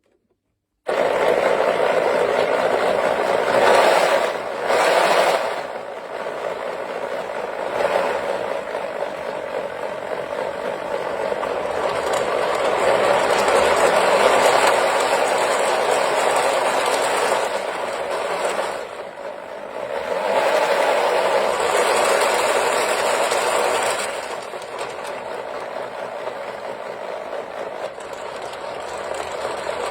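Wooden model V8 engine and drivetrain clattering as a cordless-drill electric motor turns them, its wooden intake valves and gears rattling. It starts about a second in, swells and eases as the speed changes, dips briefly near the middle and runs a little quieter near the end.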